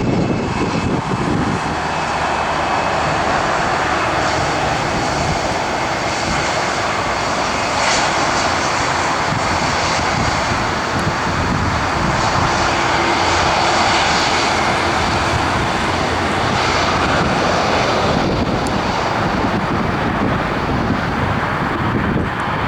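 Cargo aircraft's engines running loud and steady as a dense roar, with a few thin whining tones high in the sound during the first seconds.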